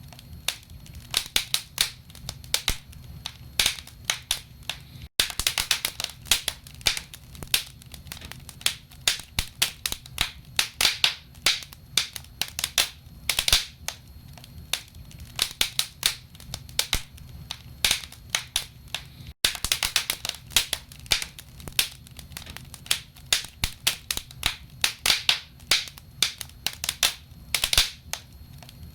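Wood fire crackling in a fireplace: dense, irregular sharp pops and snaps of burning logs over a low steady rumble. The sound cuts out for an instant twice.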